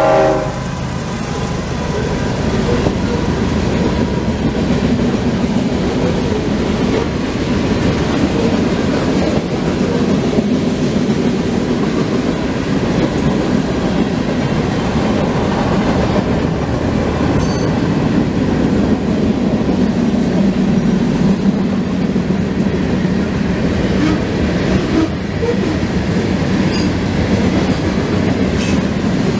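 CSX freight train's cars rolling through a grade crossing: a steady, loud rumble of steel wheels on rail with clickety-clack over the rail joints and a few short high wheel squeals. The locomotive horn cuts off right at the start.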